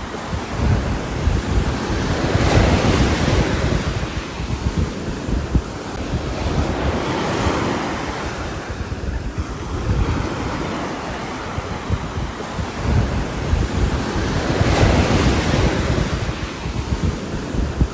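Rain with gusting wind: a rushing noise that swells and fades every four to six seconds, over a low rumble of wind on the microphone.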